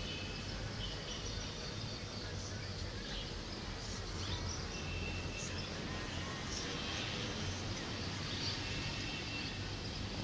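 Outdoor ambience: a steady low rumble of background noise with scattered short bird chirps and thin high calls.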